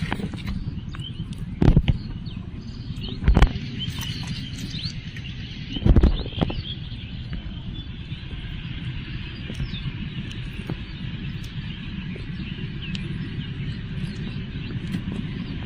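Outdoor ambience: a steady low rumble with faint bird chirps, broken by three dull thumps, about two, three and a half, and six seconds in.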